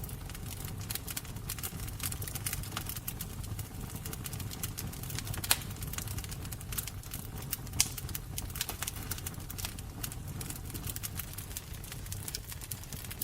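Wood fire burning, with a steady low rumble under frequent sharp crackles and two louder pops, one about halfway and one a couple of seconds later.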